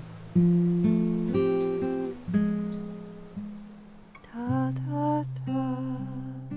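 Acoustic guitar music: single notes plucked one after another, then chords ringing on.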